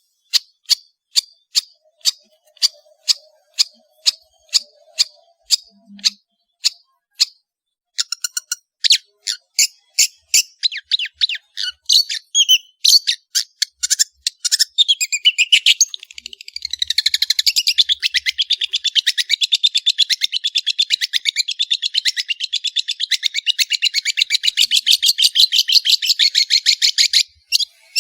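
Long-tailed shrike (cendet) singing: sharp repeated notes about two a second, quickening after several seconds, then a fast continuous chatter that stops abruptly near the end.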